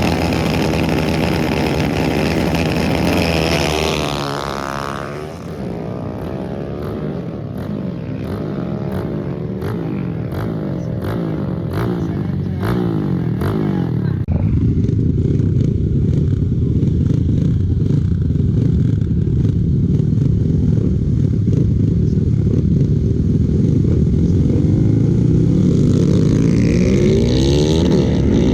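Racing motorcycle engines at full throttle during drag runs. One passes by about four seconds in, its pitch falling as it goes. Engines then climb in pitch again and grow louder from about halfway.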